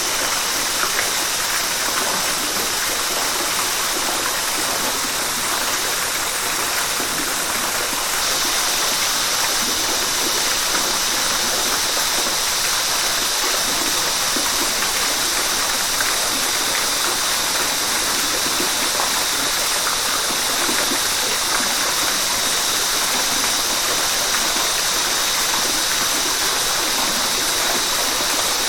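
Steady rush of a flowing river, an even wash of water noise.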